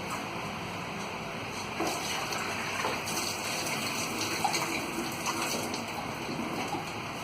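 Water being poured and splashing, starting about two seconds in and easing off near the end, over a steady background hiss.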